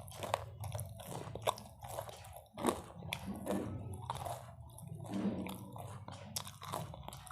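A person chewing and biting into crunchy food, with sharp crunches about once a second between softer wet chewing.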